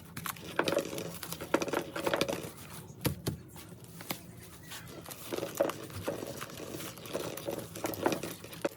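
Dry straw and twigs rustling and crinkling in irregular handfuls as they are worked and woven into a nest, with small snaps and crackles.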